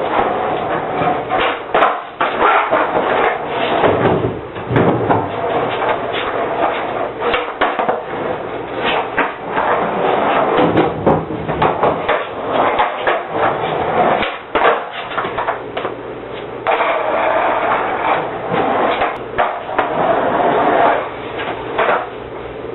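Skateboard wheels rolling on a hard floor, with many sharp wooden clacks and knocks from the board as tricks are popped and landed, in a small room.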